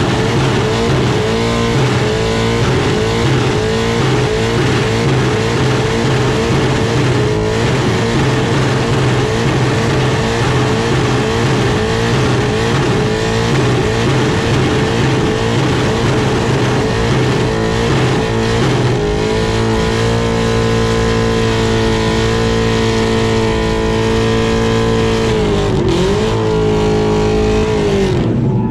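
Supercharged 1000 hp V8 of a Holden Commodore drift ute at high revs while the rear tyres spin in a burnout. The revs rise and fall rapidly for about the first two-thirds, then hold steady, dip once near the end and fall away at the very end.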